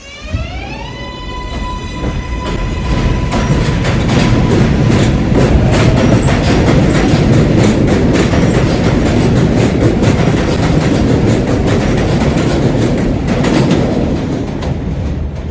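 New York City subway train running past. Its electric traction motors give a whine that rises in pitch over the first second, then holds and fades. Then comes a loud rumble with rapid wheel clatter over the rail joints, easing off near the end.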